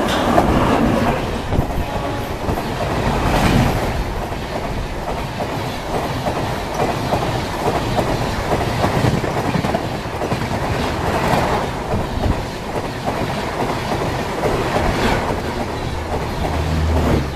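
Indian Railways Humsafar Express train passing, its wheels clattering over the rail joints in a steady, dense rush of noise.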